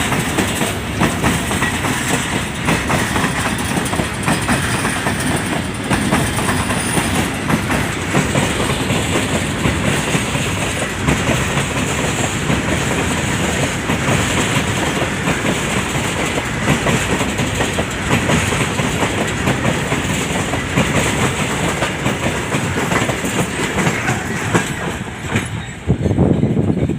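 Freight train's wagons rolling past with a steady, loud clatter of wheels over the rail joints. The noise swells briefly near the end.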